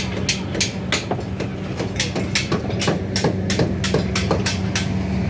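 Construction-site noise: a quick, irregular run of sharp knocks, several a second, like hammering on steel or formwork, over the steady hum of an engine running.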